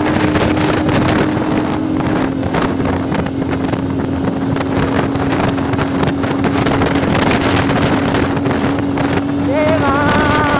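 Motorcycle running steadily at riding speed, its engine a steady drone under heavy wind rush on the microphone. Near the end, a short wavering pitched sound rises over it.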